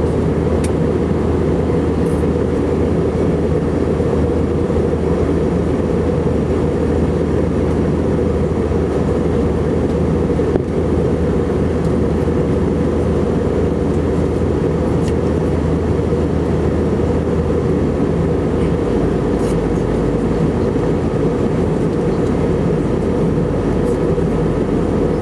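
Steady in-flight cabin drone of an Airbus A319-115, engine and airflow noise heard from inside the cabin. It is a constant low rumble with a steady hum underneath.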